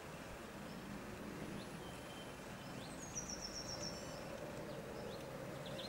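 Outdoor ambience of a steady low background noise with small birds chirping now and then. About three seconds in there is a short, fast trill that falls in pitch.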